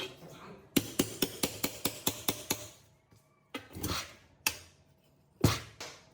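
Hammer tapping on metal: a quick run of about a dozen light taps, then a few heavier, separate knocks, the loudest near the end.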